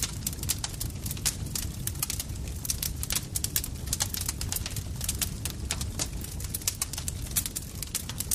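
Campfire crackling: a dense, irregular run of sharp pops and snaps over a steady low rumble of burning wood.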